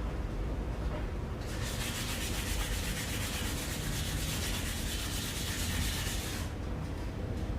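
Abrasive sanding of the scooter cylinder's metal: a steady scraping rub that starts about a second and a half in and stops about a second before the end.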